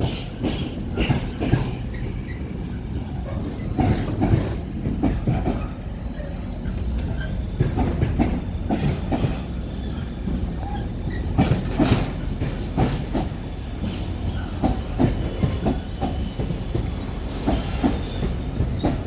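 Train wheels clacking irregularly over rail joints and pointwork, over a steady low rumble, as a train moves slowly through the station; a brief high-pitched wheel squeal near the end.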